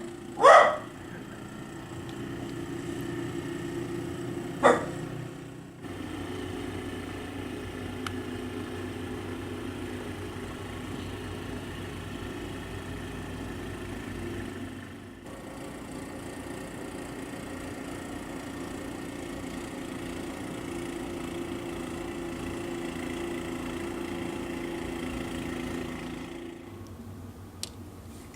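A dog barks in the first seconds, with one more sharp bark about five seconds in; then an engine runs at a steady pitch, dropping out briefly twice, and stops near the end.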